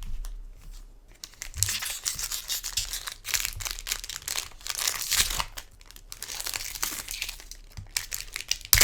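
A Magic: The Gathering booster pack's plastic wrapper being torn open and crinkled, in irregular rustling bursts, with one sharp snap near the end.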